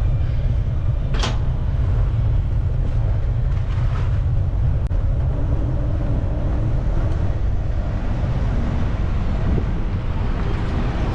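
Steady low rumble of wind over the microphone of a moving bicycle, with a sharp click about a second in.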